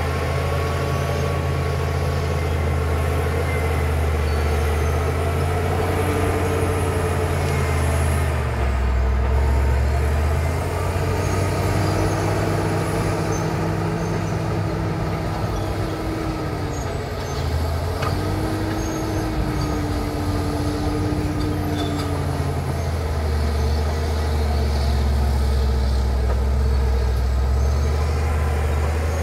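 Caterpillar D7 bulldozer's diesel engine running hard under load, its note dropping and picking up again a few times as it works. A steady whine joins it through the middle stretch, with a brief break.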